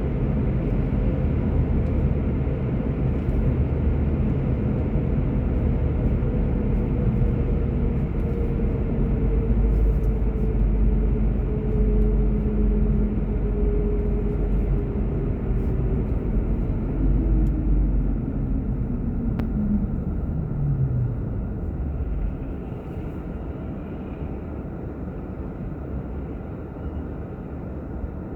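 Car driving: steady low road and engine rumble with a whine that falls in pitch as the car slows. About three-quarters of the way in the whine drops away and the noise settles lower.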